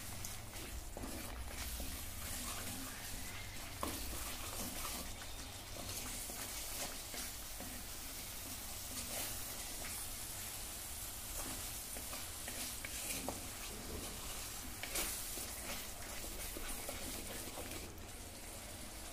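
Spice paste frying in oil in an earthenware pot, with a steady sizzle while a wooden spatula stirs and scrapes it. There are two sharper knocks of the spatula against the pot, one about four seconds in and one near fifteen seconds.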